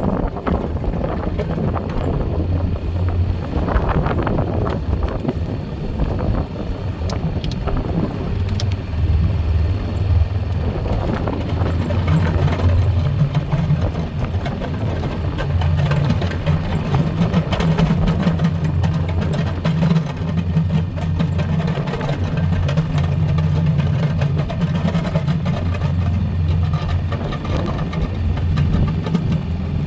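Four-wheeler (ATV) engine running while plowing snow, a steady hum whose pitch shifts a little up and down.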